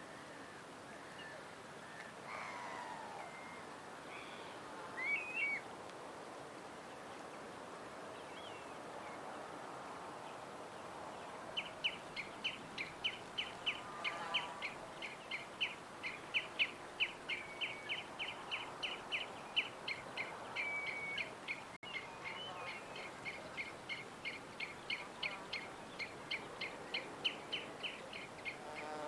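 Songbirds chirping: a few scattered calls at first, then about a third of the way in a bird starts a long, fast run of repeated high chirps, several a second, that keeps going.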